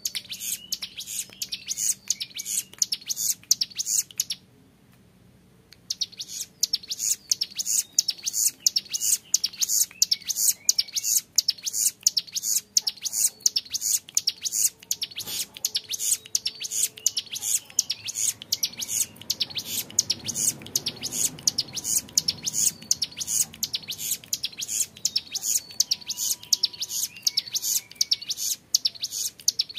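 Young male ciblek gunung, a prinia, singing a long, fast 'ngebren' song: high notes repeated in quick succession. It breaks off once for about a second and a half, about four seconds in.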